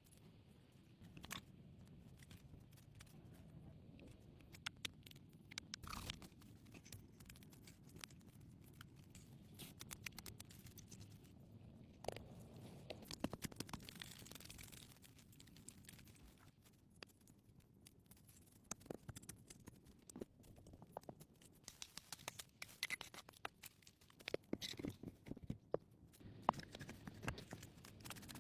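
Faint, irregular crunches, scrapes and clicks of hands at work on rough materials, more frequent near the end.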